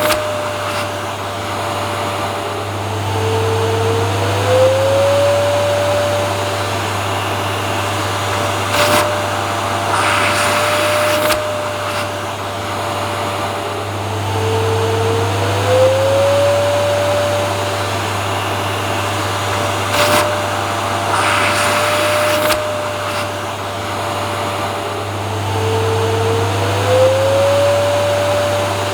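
Vacuum cleaner motor running steadily, a constant whine over a low hum. About every eleven seconds the whine dips and slides back up in pitch, and brief bursts of airy hiss come in between; the pattern repeats like a loop.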